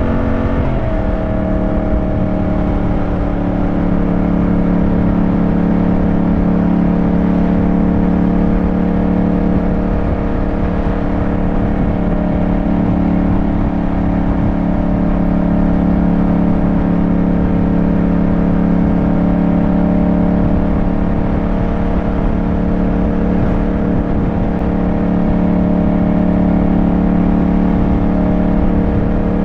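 Yamaha motorcycle engine running on the road. Its pitch drops about a second in as the revs fall, then it holds a steady drone at constant speed.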